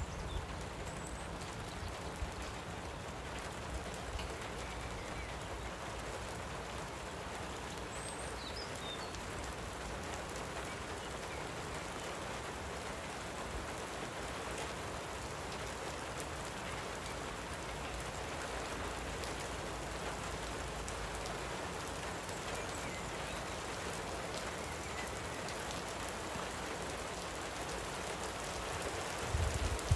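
Gentle rain falling steadily, with a few faint, brief bird chirps about a second in and again around eight to nine seconds in.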